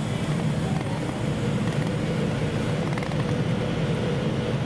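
Train running with a steady low rumble and a faint steady hum over it.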